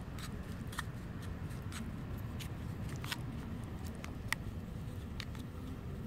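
A kitten eating: small, sharp, irregular clicks of chewing, about a dozen in six seconds, over a steady low rumble.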